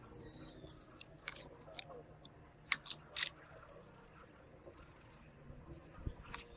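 Scattered small sharp clicks and light scraping of hand tools working on a phone's parts, with a pair of louder clicks a little under three seconds in.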